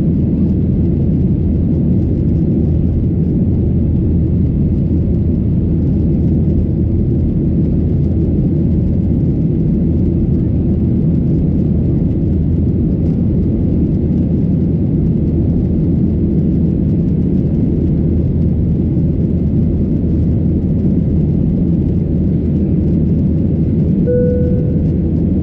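Steady cabin drone of a Boeing 737-800 with CFM56-7B engines, heard from a window seat: engine and airflow noise at an unchanging level. A single short cabin chime sounds near the end.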